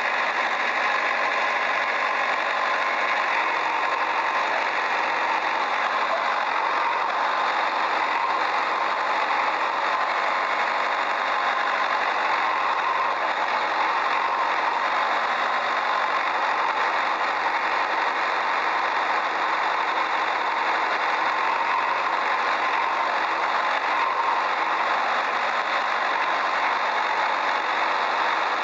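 Toy construction vehicles' small motors running steadily, an even, unbroken engine-like whirr with no low rumble.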